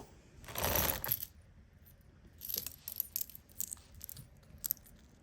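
Costume jewelry being handled: a sharp click, then about a second of jingling chain and metal pieces, followed by a string of small light clinks.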